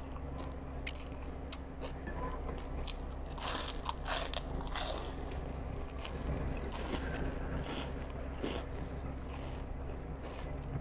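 Close-up crunching and chewing of crispy fried food, with a person biting and munching in irregular crunches. The loudest crunches come about halfway through.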